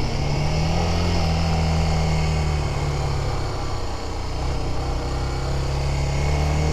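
Honda Dominator dual-sport motorcycle engine running at a steady cruise with a low, even note, easing off briefly about four seconds in, under wind noise on the microphone.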